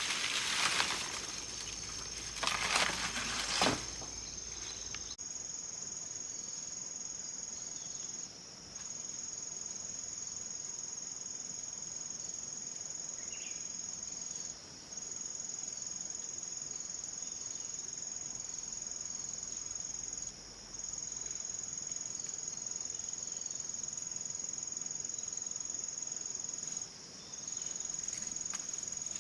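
A steady, high-pitched chorus of insects that breaks off briefly about every six seconds. In the first four seconds a few louder rustling, scuffing sounds come over it.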